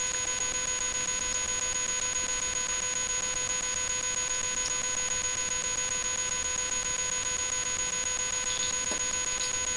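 Steady electronic whine of several pure tones over an even hiss, unchanging throughout: electrical noise in the recording.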